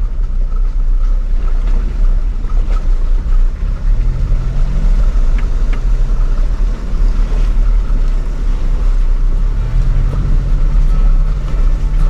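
Off-road 4x4's engine running at low speed on a trail, a steady low rumble whose pitch rises and falls a little as the throttle changes, with a few faint clicks.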